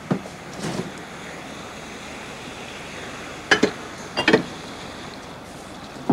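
Steady sea-and-wind background, with a few short sharp knocks standing out above it, several in close pairs.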